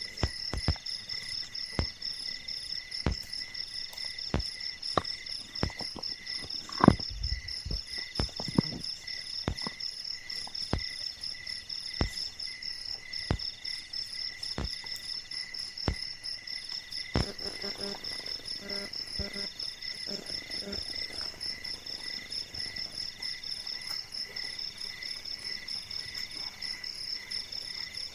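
Crickets and other night insects chirring steadily in several high pitches, one of them pulsing on and off in a slow rhythm. Irregular soft clicks and knocks come through the first half, the loudest about seven seconds in.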